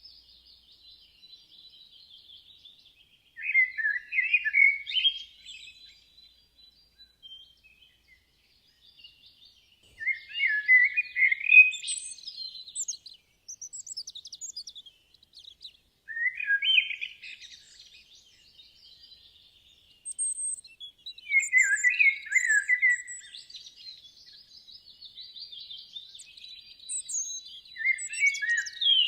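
Songbirds singing: a louder warbled phrase of about two seconds comes roughly every six seconds, five times, with fainter, higher chirps and trills from other birds in between.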